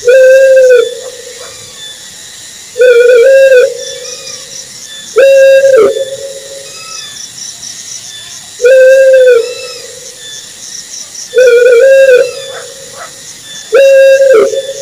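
Owl hooting: a repeated low hoot of just under a second, about every two and a half to three seconds, twice as a quick double hoot. A faint high chirring runs underneath.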